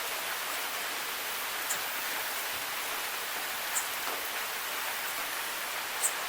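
Steady rain falling in an even hiss, with a few single louder drop ticks standing out about every two seconds.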